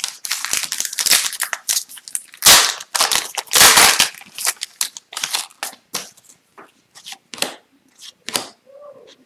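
Foil trading-card pack wrapper crinkling and tearing as it is opened, in dense crackling bursts that are loudest in the first half, then sparser rustles as the cards are handled.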